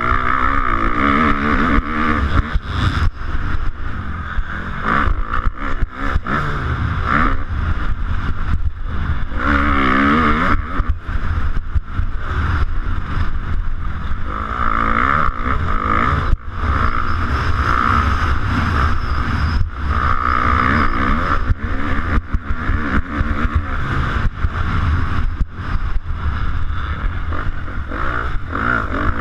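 A 250cc motocross bike's engine revving hard and easing off again and again as it races around the track, with many short knocks and rattles from the rough ground. It is heard through a GoPro camera riding along on the bike or rider.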